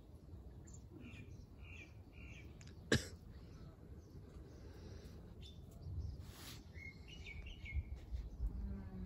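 Small birds chirping on and off over a low, steady background rumble. One sharp click comes about three seconds in, and a short hiss follows a few seconds later.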